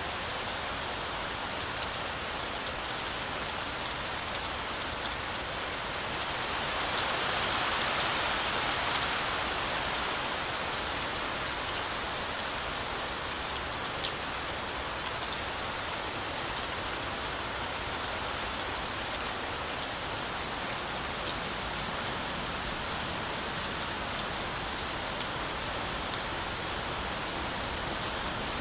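Heavy rain falling steadily through forest trees, swelling louder for a few seconds about seven seconds in before settling back to an even downpour.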